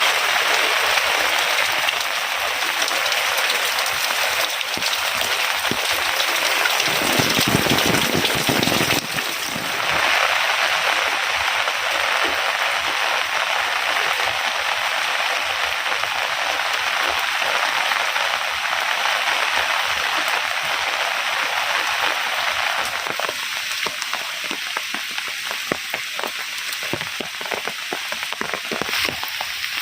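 Heavy rain falling steadily, a dense even hiss. It sounds fuller and deeper for a couple of seconds around seven seconds in. In the last quarter the hiss thins and separate drops stand out more.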